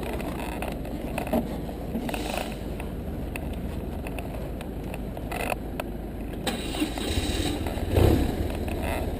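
BMW R1150RT motorcycle's boxer twin engine running at low speed, getting louder about seven seconds in as the bike pulls away.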